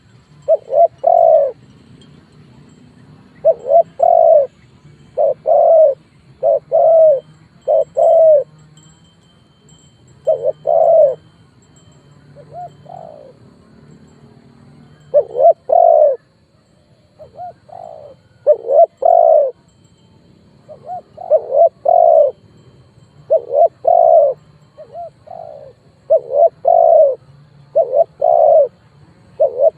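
Spotted dove cooing over and over in short phrases of two or three coos, with brief pauses between phrases: a male's call played as a lure to bring wild doves in to fight.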